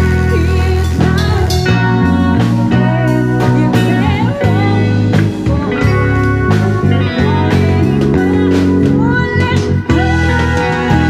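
Live rock band playing: electric guitar with bent, wavering notes over steady bass and drums.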